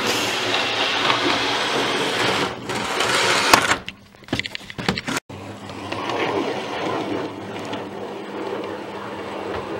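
Dubbed-in Class 43 HST diesel train sound: a steady running-train rush with a constant low engine drone. It dips into a brief quieter stretch about four seconds in and cuts off sharply just after five seconds, then carries on slightly quieter.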